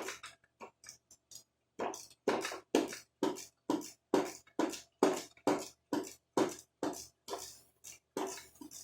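A hand tool worked in quick, even back-and-forth strokes, about two a second, on the four-wheeler's carburetor fittings.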